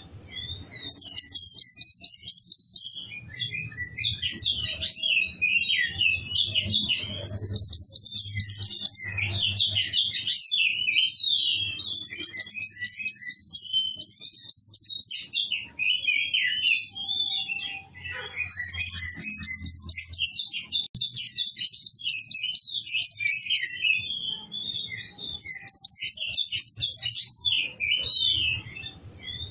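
Songbird singing energetically: fast, high trills about two seconds long, repeated five or six times, alternating with quick varied chirping and warbling notes. A faint low hum runs underneath.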